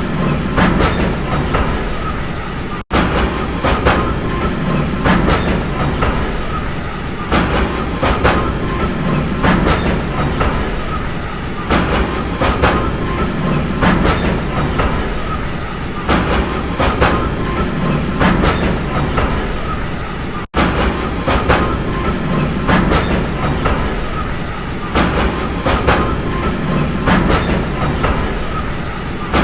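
A train running steadily on the rails, its wheels clicking over the rail joints in a regular clickety-clack, often in pairs about once a second, over a continuous rumble. Twice the sound drops out for an instant.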